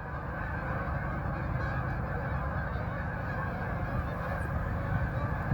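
A large flock of wild Canada geese honking, many calls overlapping into a steady din.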